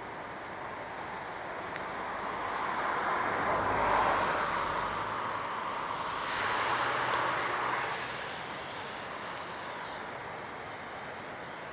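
Two vehicles passing one after the other on a wet road, their tyre hiss swelling about four seconds in and again about seven seconds in, over a steady background hiss.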